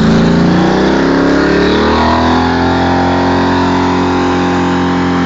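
Holden HJ ute's engine at high revs during a burnout, the rear tyres spinning and smoking on the dirt. The revs climb over the first couple of seconds, then hold steady.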